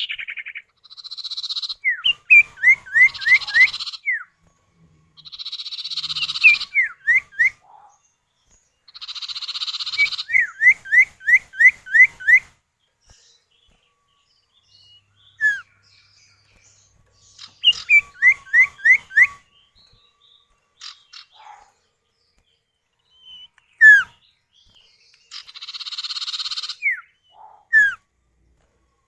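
Common ioras (cipoh/sirtu), male and female answering each other: harsh buzzy rattles followed by runs of four to six quick rising whistles, repeated in bouts a few seconds apart. Through the middle there is a sparser stretch of single notes.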